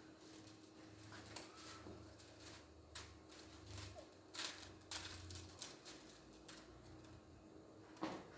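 Faint scattered clicks and taps of hands handling plastic filament and its spool, over a steady low hum.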